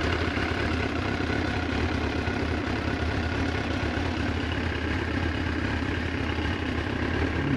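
Yamaha FZS1000 Fazer's inline-four engine idling steadily.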